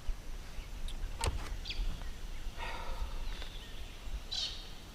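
Quiet riverside ambience: faint bird calls over a low rumble of wind, with one sharp click about a second in.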